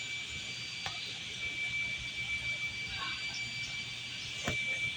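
Steady high-pitched whine over a low hum and hiss, with faint clicks about a second in and near the end.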